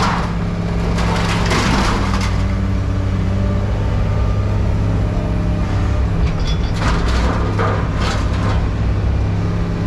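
A heavy machine's engine running steadily while scrap is crunched and cracked, with bursts of crunching in the first two seconds and again about seven to eight seconds in.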